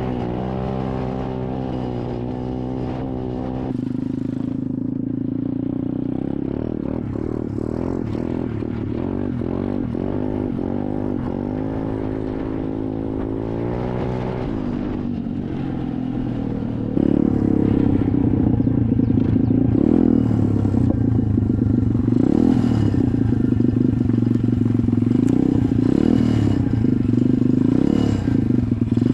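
SSR 125 dirt bike's single-cylinder four-stroke engine running under way, its pitch rising and falling over and over as the throttle is worked, and getting louder a little past halfway.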